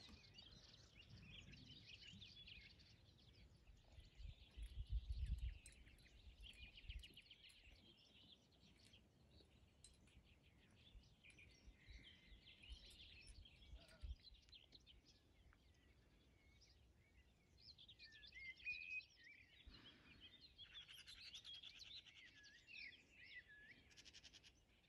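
Faint birdsong: several small birds chirping and warbling at once. A brief low rumble comes about five seconds in.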